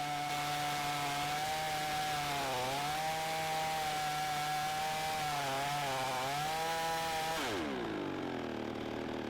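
Two-stroke Zenoah-clone chainsaw held at full throttle, the engine pitch dipping twice as it is loaded in the wood. About seven and a half seconds in, the throttle is released and the engine falls quickly to idle.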